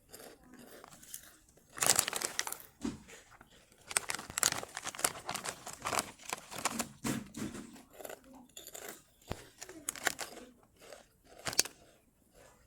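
Kkokkalcorn corn cone snacks being bitten and chewed: crisp, irregular crunching and crackling, in dense spells with pauses, along with crinkling of the snack bag.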